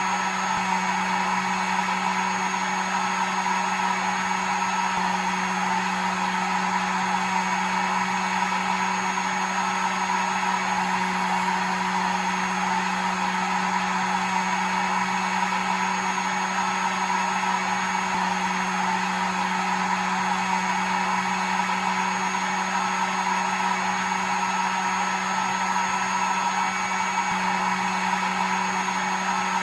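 Electric hair dryer running continuously on one steady setting: an even, unchanging blowing rush with a low motor hum beneath it.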